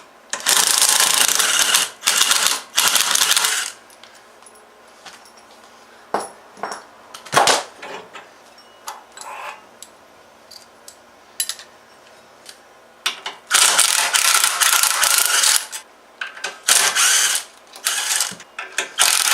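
Ratchet wrench being worked hard on the torque converter pulley bolt, in rapid clicking runs of a second or two: two near the start, then a stretch of scattered metal clinks, then several more runs near the end.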